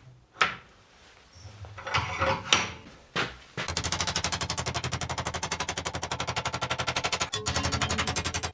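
A few scattered knocks, then about three and a half seconds in a machine starts up with a rapid, even mechanical pulsing that keeps going, with one brief break near the end.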